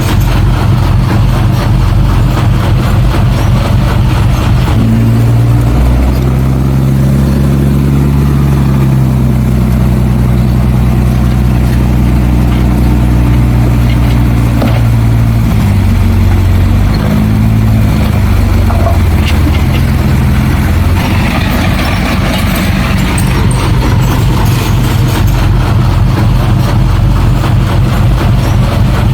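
Heavy diesel engine of earthmoving machinery running steadily. Its engine note changes about five seconds in and returns to the earlier note around twenty seconds in.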